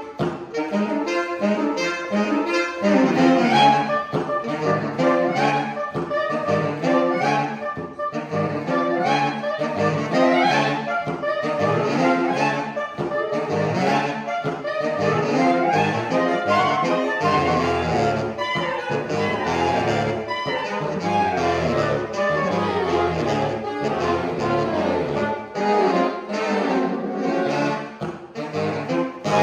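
Saxophone quartet (soprano, alto, tenor and baritone saxophones) playing a fast, dense passage of many quick notes, with the baritone's deep low notes coming in strongly about 17 seconds in.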